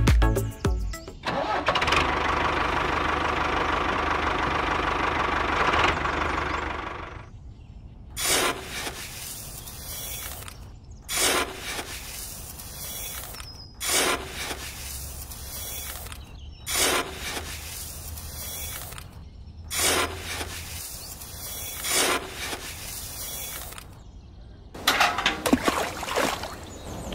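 A loud steady mechanical whir for about five seconds, then a run of short scrapes about every two to three seconds as a small spoon digs into sand in a little metal bucket. Near the end, water splashes as a small metal pail is dipped into a shallow water channel.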